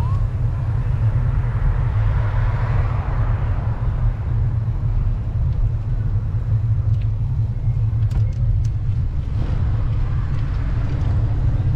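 Wind rumbling on the microphone of a moving bicycle, with a swell of passing traffic noise about two to three seconds in.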